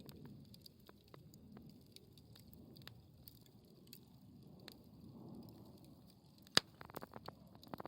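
Campfire crackling faintly with scattered small pops, one sharp pop about six and a half seconds in, then a quick run of crackles near the end.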